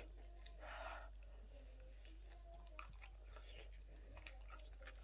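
Faint chewing and wet mouth clicks of someone eating a sauced chicken wing.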